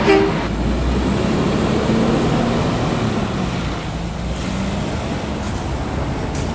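Recycling trucks' engines running, a steady heavy-vehicle rumble with a faint high whine above it.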